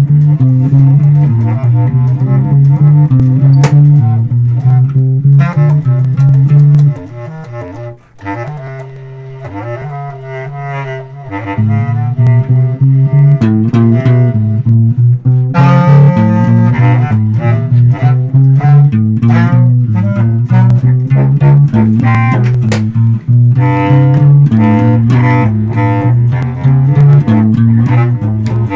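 Live band jam: an electric bass plays a loud, repeating low line with guitar and other instruments above it. About a quarter of the way in, the bass drops out and the music goes quieter for a few seconds, then the full band comes back in.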